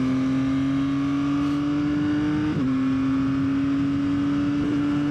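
Yamaha XSR900's inline-three engine pulling steadily on the road, its pitch slowly climbing; about halfway through it dips briefly, then climbs again.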